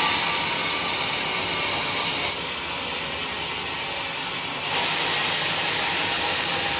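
Sawmill saw running through wood: a steady hissing noise that grows louder for the first two seconds and again from about five seconds in.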